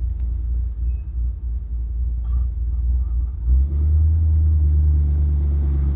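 Chevrolet Impala's 327 small-block V8 running at low speed with a low rumble. About three and a half seconds in it grows louder and settles into a steady low drone.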